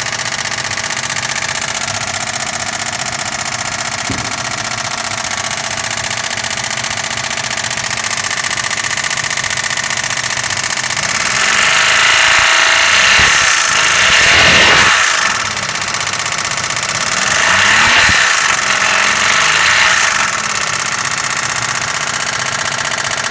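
Suzuki Wagon R's K6A 660 cc three-cylinder engine running with an abnormal noise, revved up twice and let fall back in the second half. The uploader puts the noise down to the bearing metals, a sign of a failing engine.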